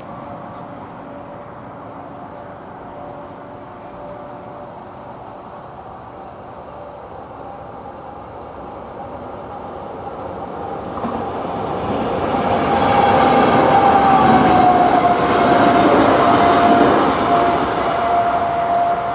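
Passenger train approaching and passing a level crossing, swelling to a loud rumble and clatter about halfway through, with a tone that drops in pitch as it goes by. The crossing's first-generation AŽD 97 electronic warning bell rings underneath.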